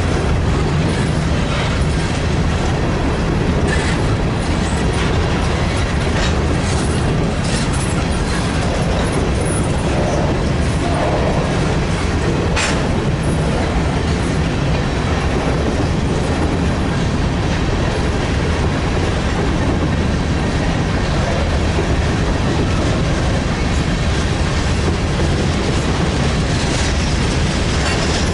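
A grain train of freight cars rolling past with a steady loud rumble and wheels clicking over rail joints. A few sharp metallic clicks or squeaks stand out in the first half.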